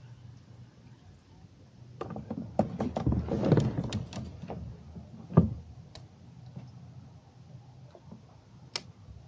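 A run of sharp knocks, clicks and rattles of gear handled in a fishing kayak, starting about two seconds in with the loudest knock about five seconds in, then a single sharp click near the end.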